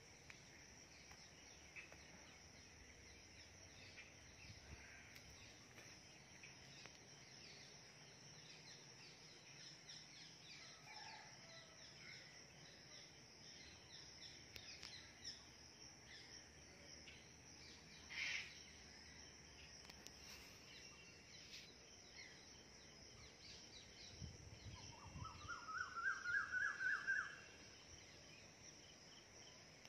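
Quiet outdoor ambience: a faint steady high insect drone with scattered bird chirps. Near the end a bird gives a quick run of about ten notes rising in pitch, the loudest sound.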